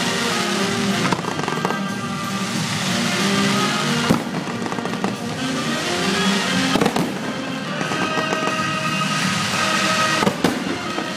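Fireworks bursting: a steady crackle and hiss with a sharp bang about every three seconds, over loud music playing along with the display.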